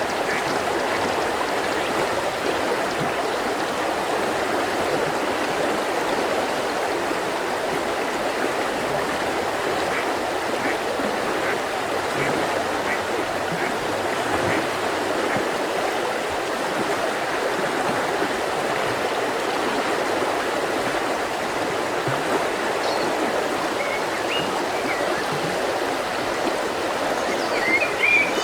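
Mountain river flowing steadily, with a few faint bird chirps over the water and a brighter burst of chirps near the end.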